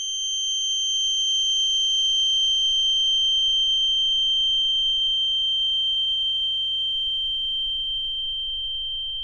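A steady, high-pitched electronic sine tone held throughout, swelling slightly and then slowly fading, with a faint lower tone gliding slowly up and down beneath it.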